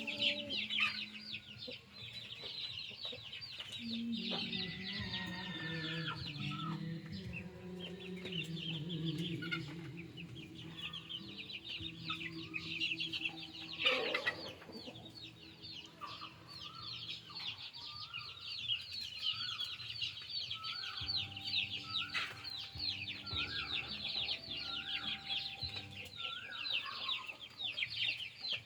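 Chickens clucking and calling: low drawn-out calls early on, then a run of short repeated rising calls, about one a second, over a dense high chirring throughout. A single sharp louder sound about halfway through.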